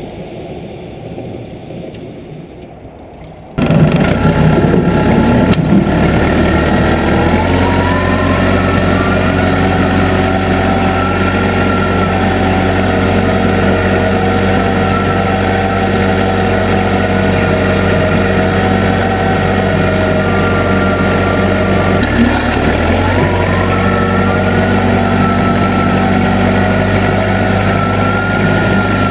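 Case 580B backhoe engine, quieter at first, then jumping louder about four seconds in and revving up over the next few seconds. It then runs steadily at high revs with a wavering whine over it, dipping briefly once and recovering.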